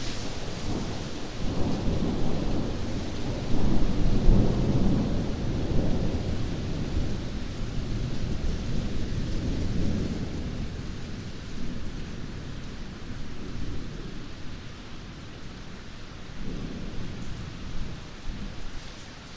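Thunder rumbling over steady rain, loudest about four seconds in and slowly dying away.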